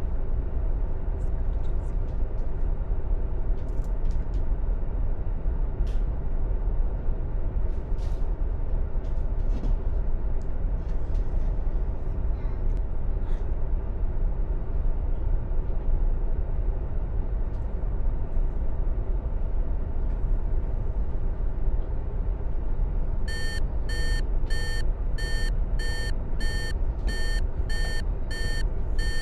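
Steady drone of an airplane in flight, an aircraft cabin sound effect. About six seconds before the end, an electronic warning alarm starts beeping about twice a second, the alert for the engine failure that follows.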